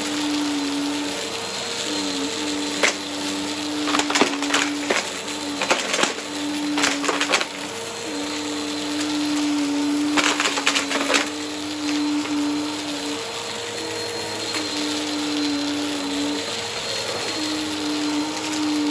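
Vacuum cleaner running, its motor hum stepping up and down in pitch as it is pushed back and forth. Several bursts of crackling, at about four, six to seven and ten to eleven seconds in, as it sucks up crunchy debris.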